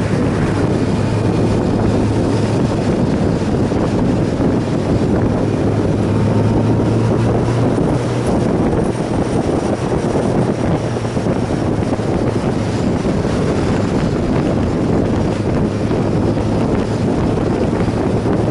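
Motorcycle riding at a steady speed: wind rushing over the microphone, with a steady low engine drone underneath.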